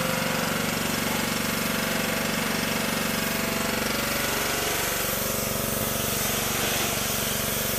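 Gas-engine pressure washer running steadily, its engine drone under the hiss of the water jet blasting a surface.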